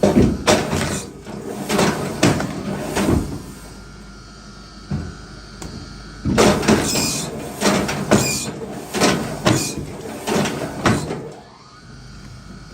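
A hand tool working wood in rhythmic strokes, about two a second. A run of strokes is followed by a pause of a few seconds, then a second run, and the strokes stop shortly before the end.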